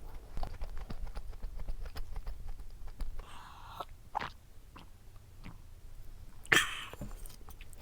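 Close-up eating sounds: biting and chewing with many small crunchy clicks, and a louder burst of noise about six and a half seconds in.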